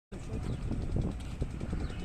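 A train, hauled by a General Electric diesel locomotive, running through a station: a steady low rumble with irregular knocks and clatter.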